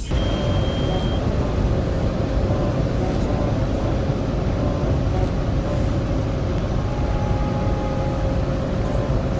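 Automatic car wash machinery running, heard from inside the car: a loud, steady rushing noise with a faint even hum, starting abruptly.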